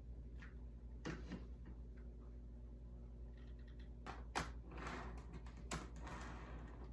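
Faint clicks and light knocks of small parts being handled, with a stretch of soft rustling about two thirds of the way in, over a low steady hum.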